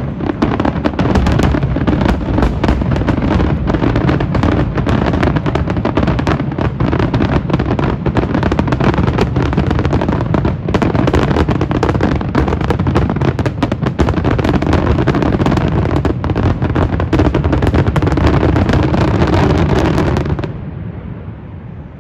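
Fireworks finale: a dense, continuous barrage of bangs and crackling shells that cuts off suddenly near the end, leaving a fading rumble.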